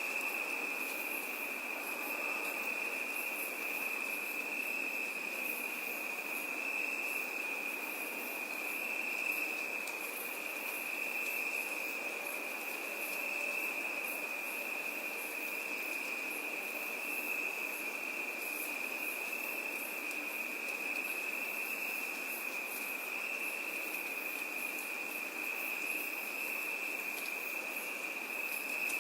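Insect chorus of crickets: one unbroken high, steady trill, with fainter, higher pulsing chirps repeating over it.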